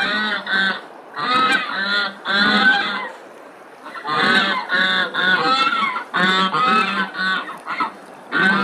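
Geese honking: a run of loud, repeated calls in short groups with brief pauses between them.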